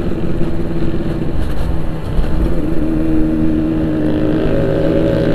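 Yamaha RX-King 135cc two-stroke single-cylinder engine running under way, holding a steady note that climbs slightly about two seconds in and again near the end as it picks up revs.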